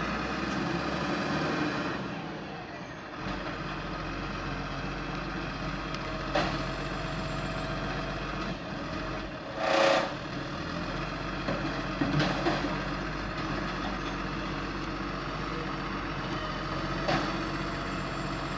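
Garbage truck engine running steadily. About halfway through there is a loud burst of noise, and a few sharp knocks come through at intervals.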